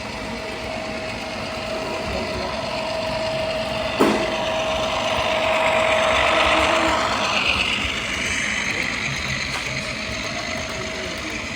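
Model train running on the layout, its sound swelling to a peak about six seconds in and easing off, over a steady whine that stops about seven seconds in. A sharp click comes about four seconds in.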